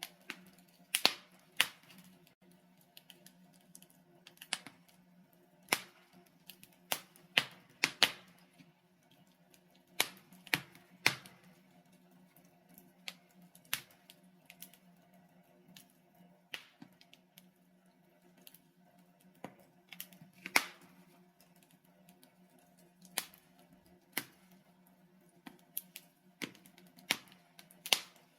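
Burning logs in a fireplace crackling: irregular sharp pops and snaps, a few much louder than the rest, over a faint steady low background.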